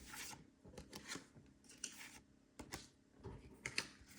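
Faint, irregular rustling and light clicks of trading cards being handled and flipped through.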